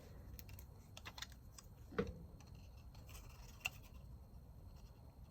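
Faint, scattered light clicks and taps of paper stickers and craft tools being handled on a desk, the loudest about two seconds in and again near four seconds.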